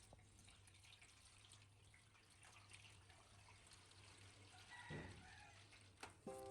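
Near silence: faint room tone with a steady low hum, and a brief faint tone about five seconds in.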